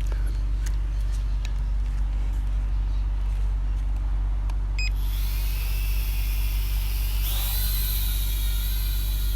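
Vehicle engine running with a steady low hum and a few sharp clicks. About five seconds in, a hiss with a high whine starts, and it grows louder a little after seven seconds.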